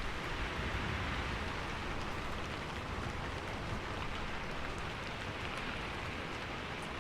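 Steady rain falling on a roof: an even hiss with faint individual drops ticking through it.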